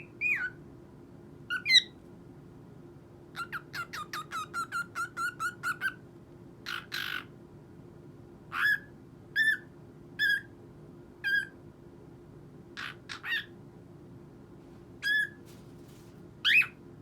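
Cockatiel calling: a quick run of about a dozen short chirps, then a harsher screech and single whistled calls spaced a second or so apart.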